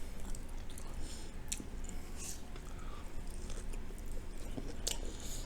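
A person chewing sauced, battered cauliflower close to the microphone, soft and quiet, with a few faint wet mouth clicks.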